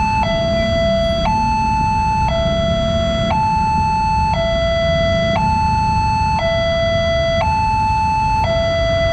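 Electronic railway level-crossing warning alarm sounding a two-tone hi-lo pattern, switching between a higher and a lower note about once a second, repeating steadily.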